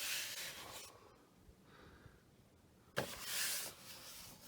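Handling noise from the plastic dirt bin of a Hoover bagless twin chamber upright: a soft rub, then a sudden short scrape about three seconds in.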